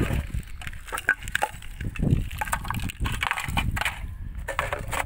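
Irregular crunching, rustling and knocking as debris and scrap are picked through by hand, with scattered sharp clicks.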